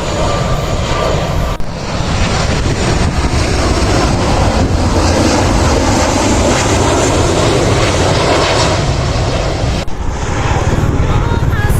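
Jet airliner engines running loud and steady, a dense wash of noise with two brief dropouts, about a second and a half in and near the end.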